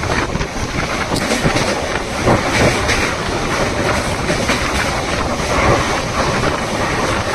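Train running across a railway bridge, heard from inside a carriage: a loud, steady rumble of wheels on rails with a dense run of clicks and knocks.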